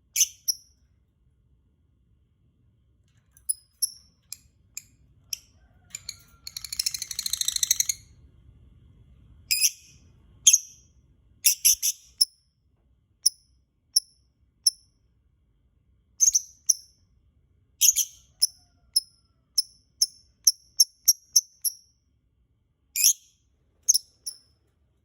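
Lovebird calling in short, sharp, high-pitched chirps, repeated irregularly, with a two-second run of rapid chattering about six seconds in.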